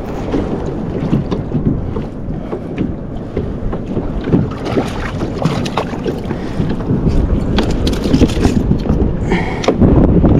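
Water sloshing and slapping against a kayak's hull, with wind buffeting the microphone and scattered knocks and clicks throughout.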